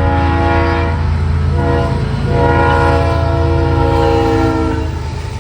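Locomotive's chime air horn sounding for a grade crossing: a blast ending about a second in, a short blast, then a long blast that cuts off near the end. Under it runs the steady low rumble of the passing CSX coal train.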